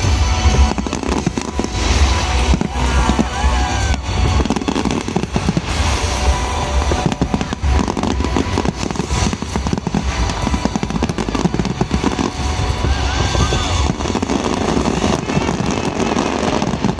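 Fireworks display going off continuously: rapid bangs and crackling from shells bursting one after another, over deep booms.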